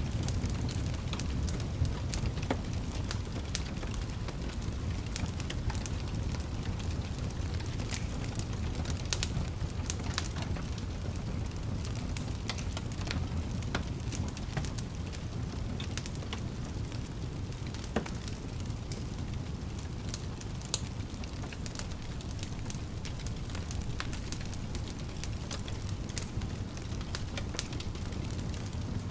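Fire burning in a fireplace: a steady low rumble of flames with frequent sharp crackles and pops. A few louder snaps stand out, about 2 seconds in, about 18 seconds in and about 21 seconds in.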